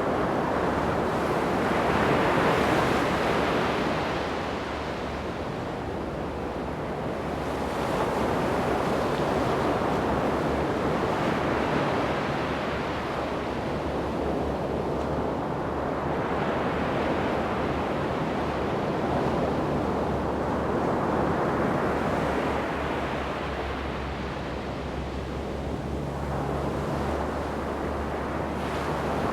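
Ocean surf breaking and washing up a sandy beach, swelling and ebbing in slow waves every several seconds, with some wind on the microphone.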